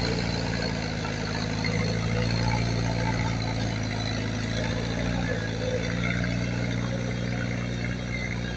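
Heavy earthmoving machine's diesel engine running steadily at an even, low pitch.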